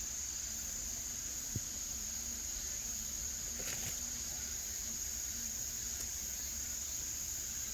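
Steady high-pitched chirring of crickets or other insects over a quiet outdoor hiss, with a faint low buzz coming and going and one light click about one and a half seconds in.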